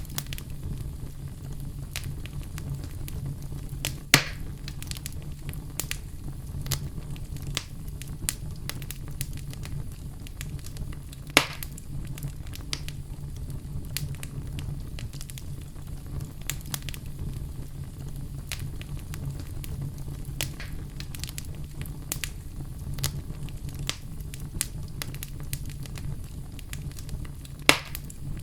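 Oak logs burning in a fireplace, crackling steadily over a low rumble from the flames, with three sharp pops from the wood about 4, 11 and 28 seconds in.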